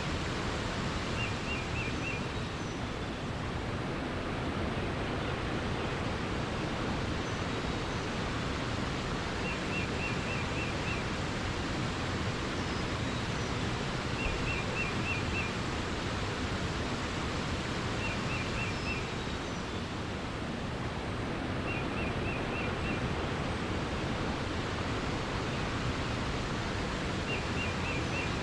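Steady rush of flowing water, with a small bird repeating a short, quick trill of five or six high notes about six times, several seconds apart, and a few faint higher chirps.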